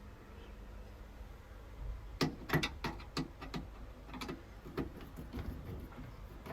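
Irregular run of small clicks and taps from hands working on the opened boiler's casing and components, starting about two seconds in.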